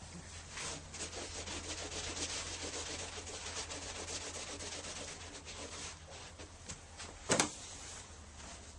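Faint, irregular rubbing and scraping handling noises, with one sharp knock about seven seconds in, over a steady low hum.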